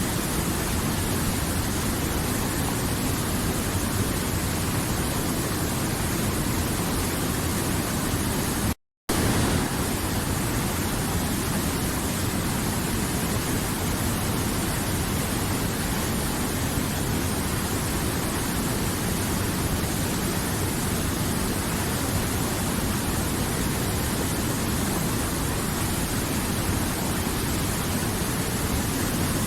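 River water flowing, a steady rushing noise with no changes, cut by a brief moment of total silence about nine seconds in.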